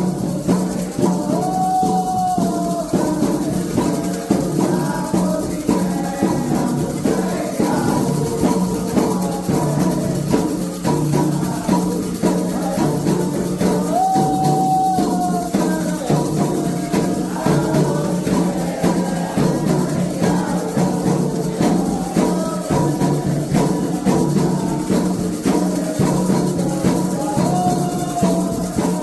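Candomblé ritual music: continuous, dense drumming with rattling shakers. A singing voice holds a long note now and then, three times in all.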